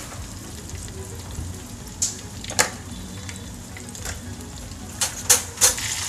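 Chicken drumsticks deep-frying in hot oil in a small stainless-steel saucepan: a steady sizzle, with a few sharp clicks, two about two seconds in and three close together near the end.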